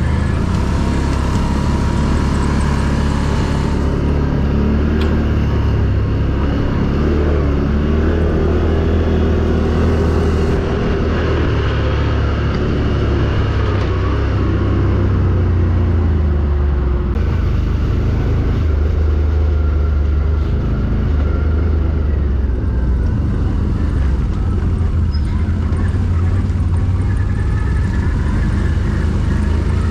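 ATV engine running under load, its pitch rising and falling as the throttle is worked.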